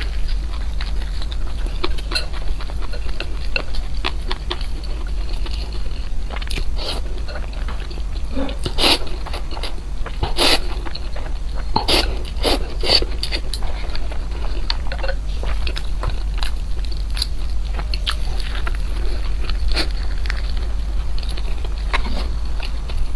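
Close-miked eating sounds: a person biting and chewing food, with irregular crisp clicks and crunches, thickest in the middle, over a steady low hum.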